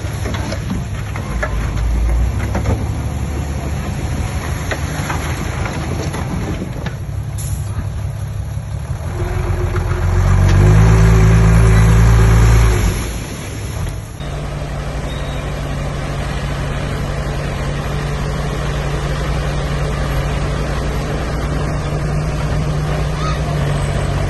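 Diesel earthmoving machinery running at work, with the engine revving up hard about ten seconds in and holding for a few seconds before dropping back. After an abrupt change a few seconds later, a steady engine run continues.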